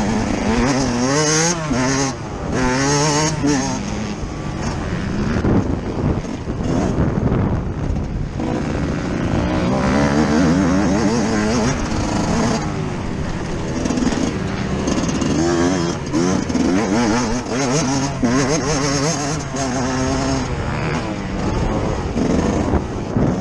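Yamaha YZ125 single-cylinder two-stroke motocross engine ridden hard on track. The engine pitch climbs and drops again and again with the throttle and gear changes.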